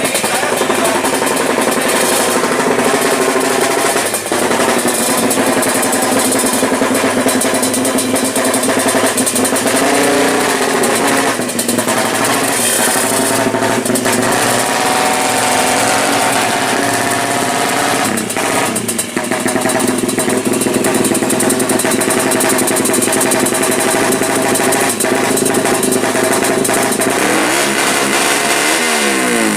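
Yamaha Jupiter drag-bike engine built with high compression, its single-cylinder four-stroke running loud and fairly steady with small wavers in speed. Near the end it is revved up and down.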